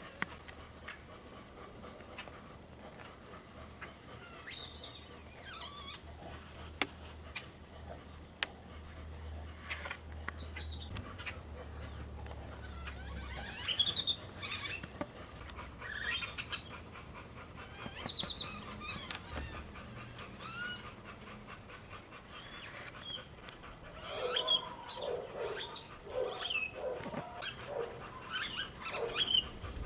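Animal calls: scattered short, high chirps and squeaks, growing denser and lower pitched in the last few seconds.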